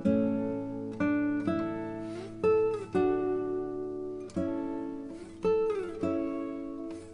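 Background music of acoustic guitar: a new chord picked about once a second and left to ring, with some notes sliding in pitch.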